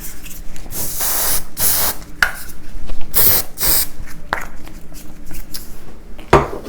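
Dove aerosol antiperspirant spray being sprayed in several short bursts of hiss, one after another.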